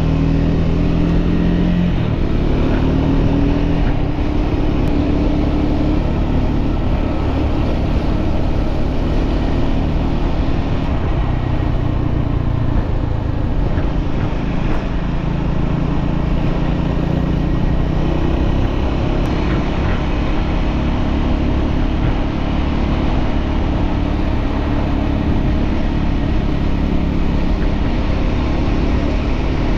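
Motor vehicle engine running steadily under a constant road-like rumble, its pitch drifting up and down a little as the speed changes.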